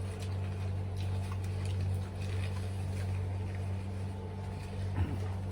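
A steady low hum with a few faint ticks over it.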